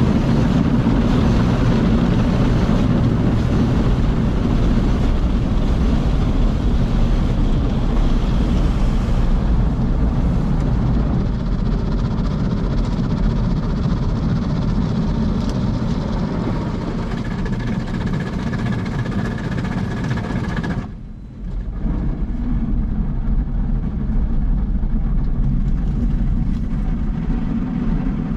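Daifuku TWINFECT FORCE automatic gantry car wash running through its wash cycle: a loud, steady mechanical rushing noise. It eases a little about ten seconds in, picks up a faint high whine later, and drops out briefly about twenty-one seconds in before starting again.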